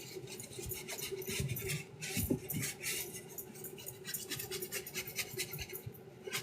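A brush scrubbing a sneaker in quick, repeated scratchy strokes, lighter in places.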